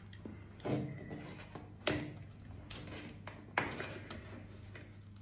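Four sharp clicks and taps about a second apart, from handling the shell of a steamed giant isopod, over a faint low hum.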